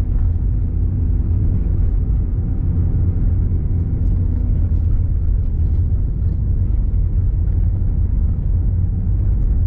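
Car driving on the road, heard from inside the cabin: a steady low rumble of engine and tyres, with a faint hum that fades out about four and a half seconds in.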